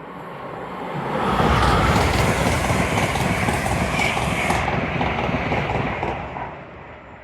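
An LNER Azuma high-speed train passing through the station at speed. The rushing noise builds about a second in, stays loud for a few seconds, then fades away near the end.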